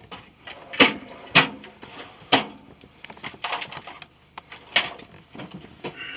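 A handful of sharp, irregular knocks and clacks, the loudest two about a second in.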